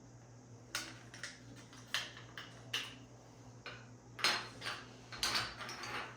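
A series of light clicks and clinks from handling the plastic parts of a wireless light switch and its battery, sparse at first, then closer together and louder from about four seconds in.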